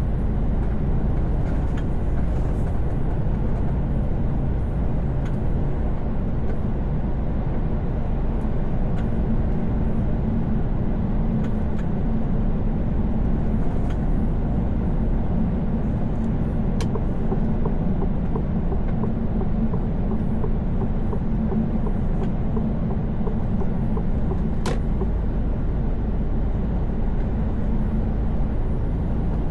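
A truck's engine and tyre noise while cruising at a steady speed on a motorway, heard from inside the cab: a constant low rumble with a couple of faint ticks.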